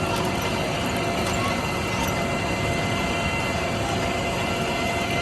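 Tractor running, with a steady mechanical rattle and clatter.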